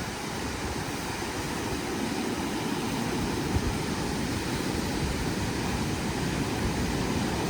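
Strong coastal wind blowing steadily, with a low rumble of gusts buffeting the microphone.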